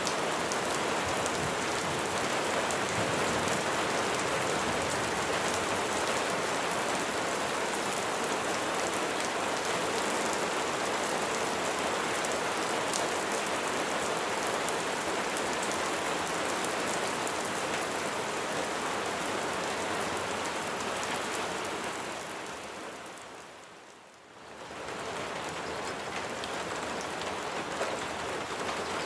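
Steady rain falling on a surface, an even hiss of drops. About three quarters of the way through it fades down briefly and swells back.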